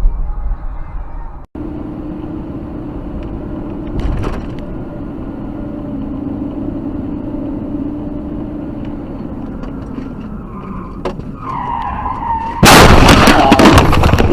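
Steady car road noise, then a tyre squeal from about eleven seconds in, followed near the end by a sudden, very loud, ongoing crash noise, typical of a vehicle skidding into a collision.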